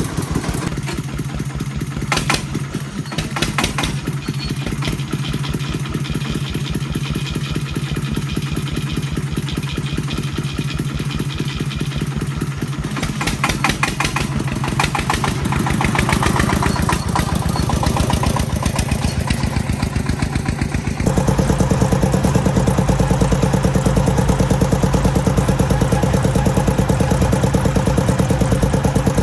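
An agricultural vehicle's engine runs steadily with a regular beat of firing pulses. About two-thirds of the way through it suddenly becomes louder and heavier.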